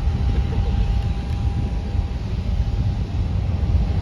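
Twin turbofan engines of a Boeing 767 freighter at takeoff power: a steady low rumble with a faint steady whine above it.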